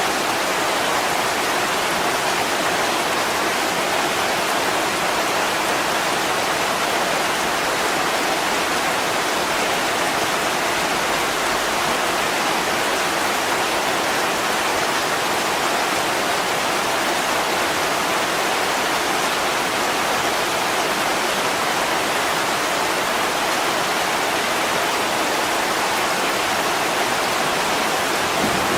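Heavy rain pouring down steadily on a window, an even, unbroken hiss.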